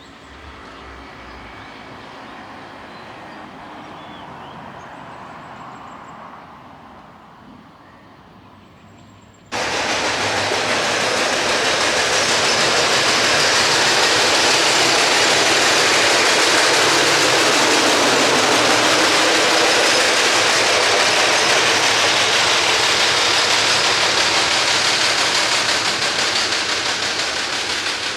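A train passing close on the railway: a quieter rumble for about the first third, then suddenly a loud, steady rushing noise of the train going by, easing slightly near the end.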